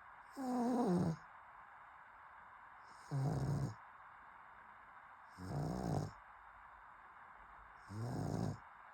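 A pug snoring in its sleep: four loud snores about two and a half seconds apart, each lasting well under a second, with quiet breathing hiss between.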